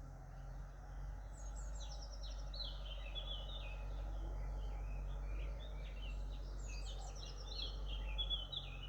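Songbirds singing: quick, high twittering phrases in two spells, over a steady low rumble.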